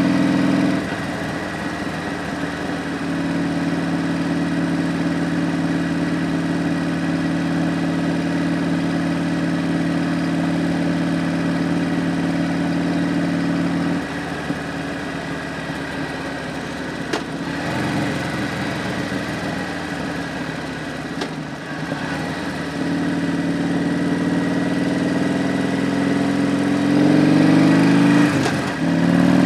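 Harley-Davidson Road Glide's V-twin engine and exhaust running under way. The steady engine note drops back about halfway through, picks up again, then grows louder near the end with its pitch sliding as the revs change. It dips briefly just before the end.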